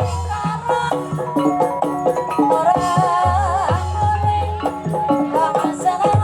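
Javanese gamelan music for ebeg dance: struck pitched keys play a running melody over deep low beats, with a wavering held melodic line about three to four seconds in.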